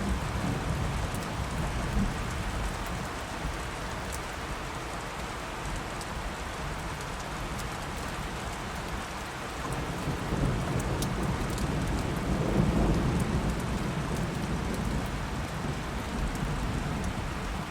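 Steady rain falling, with scattered drop patter, and a low roll of distant thunder that swells about two-thirds of the way through and then fades back.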